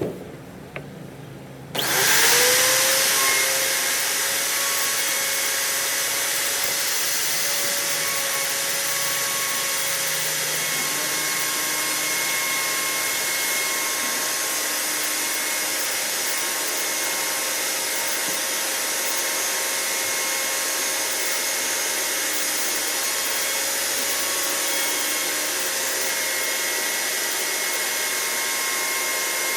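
Electric power tool switched on about two seconds in, its motor spinning up with a brief rise in pitch, then running steadily at full speed with a constant whine over a loud hiss.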